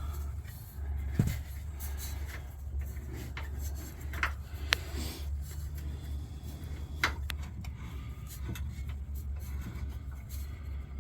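Scattered sharp clicks and clinks of hand tools and metal hardware being handled during the air bag install, over a steady low hum.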